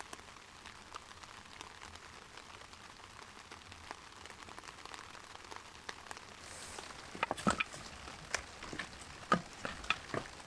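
Steady light rain with scattered drops tapping; from about seven seconds in, louder drips land close by at irregular moments.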